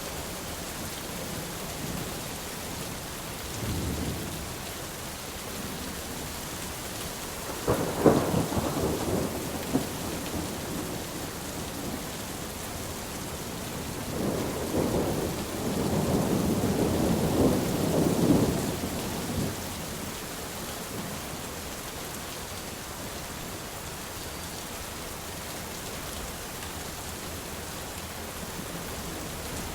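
Steady rain with thunder: a faint rumble early on, a sharp thunderclap about a quarter of the way in, then a longer rolling rumble around the middle.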